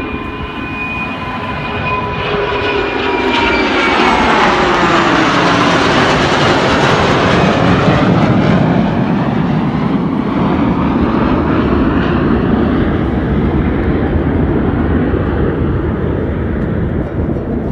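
Airshow aerobatic aircraft flying past: its engine whine falls in pitch as it passes, swelling into a loud roar that peaks partway through and then holds.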